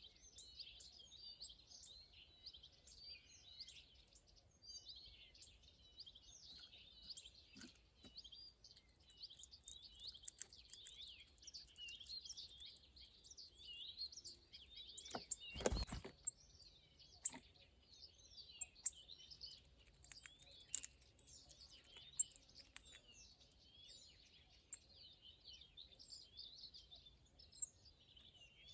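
Many small birds chirping and twittering at once in a continuous busy chorus, with scattered light clicks. A short loud burst of noise about halfway through stands out above it.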